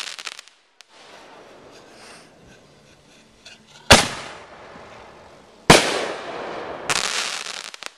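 Aerial fireworks bursting overhead: three sharp bangs about four, six and seven seconds in, each trailing off into echo, the last followed by crackling.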